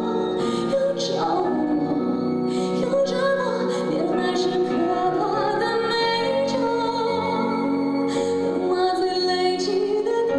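A woman singing a pop ballad live, with a held, gliding melody over instrumental accompaniment.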